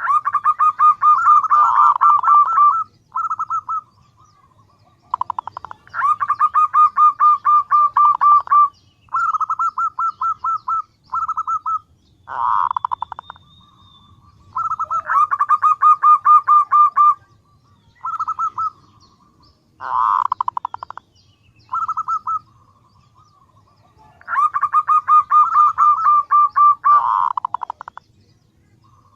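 Female zebra dove (perkutut) calling to males, the lure call used to draw them in: repeated bursts of rapid, evenly pulsed notes on one pitch, some bursts three to four seconds long, others under a second, with short pauses between.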